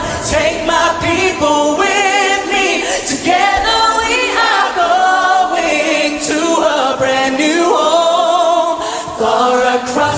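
Several singers' voices in sustained, wavering notes with vibrato, with little bass underneath.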